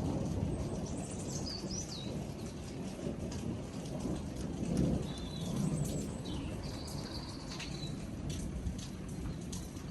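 Thunder rumbling continuously with rain falling, the rumble swelling about halfway through. Birds chirp and whistle in a few short high calls over it.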